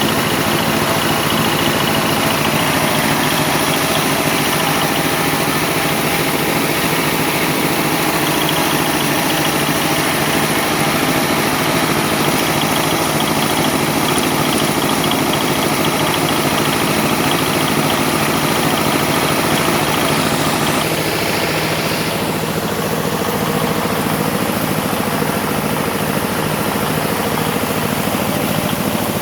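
An engine running steadily throughout, its sound shifting abruptly about two-thirds of the way through.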